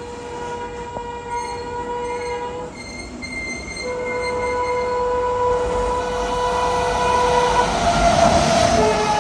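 Indian Railways electric locomotive's horn sounding two long blasts as an express train approaches at speed, the rumble of the train building. Near the end the horn's pitch drops as the locomotive passes.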